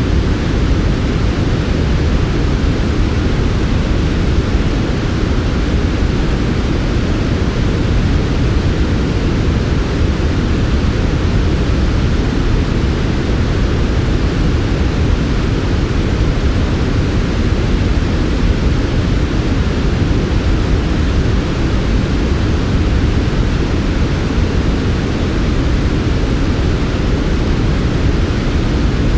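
Steady, smooth generated white noise for sleep, unchanging throughout, with most of its weight in the low end and a softer hiss above.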